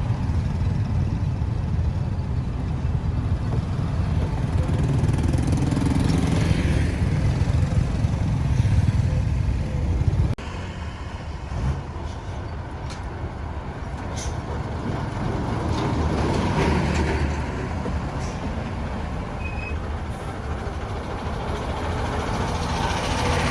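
Road traffic going by: a steady low rumble of engines and tyres that swells as vehicles pass. The level drops suddenly about ten seconds in.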